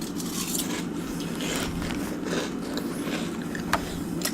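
Salt and vinegar potato chips being eaten: irregular crunching and crinkling, with a sharp click near the end.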